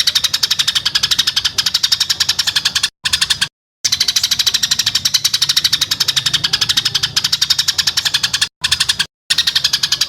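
Songbird's harsh, rapid trill: rasping notes repeated about ten a second, in long runs that cut off abruptly and start again after short gaps, with brief stops about 3 and 8.5 seconds in. It is a 'tembakan kasar' (harsh shooting) call of the kind used in masteran recordings to tutor competition songbirds.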